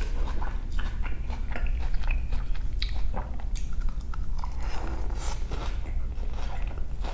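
Close-miked chewing and crunching of crisp lettuce and salad from a chicken Cobb salad, with many small wet crunches and clicks, and another mouthful taken partway through.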